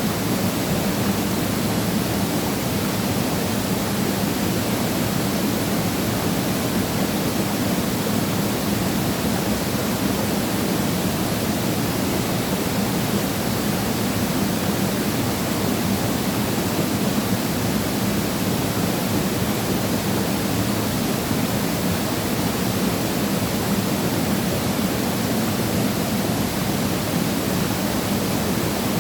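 Waterfall: a steady, unbroken rush of falling water, fullest and deepest in the low range.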